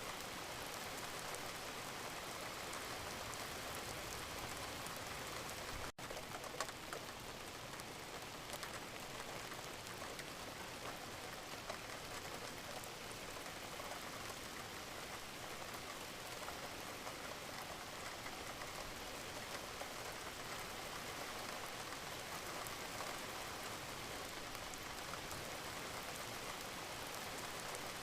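Wood fire in a fireplace burning with a steady crackle of many small pops and ticks. The sound drops out for an instant about six seconds in.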